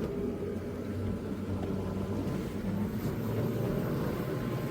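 Small boat's engine running steadily under way: a continuous low hum over a steady rush of noise.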